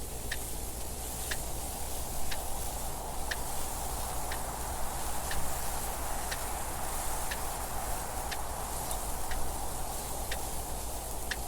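Clock ticking, about one tick a second, over a steady rushing wind noise.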